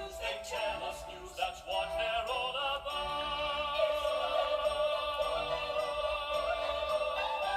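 Music with operatic-style singing: a few short notes, then from about two and a half seconds in one long held note with a wavering vibrato.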